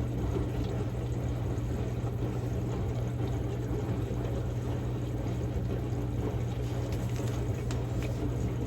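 Samsung Grande washing machine running its quick-wash cycle: a steady low motor hum with water sloshing and splashing in the drum.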